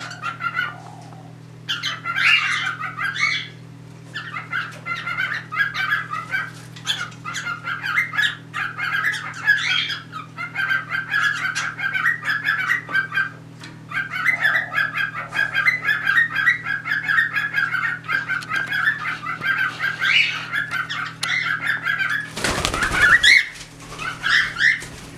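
Cockatiels chirping in fast, nearly continuous runs of short chirps, the chatter of a mating pair. A brief burst of wing flapping comes near the end.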